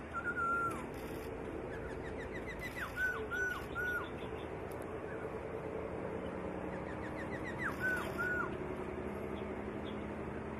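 A songbird singing whistled phrases twice: each is a quick run of short rising notes that ends in two or three clear hooked whistles, with a steady low hum underneath.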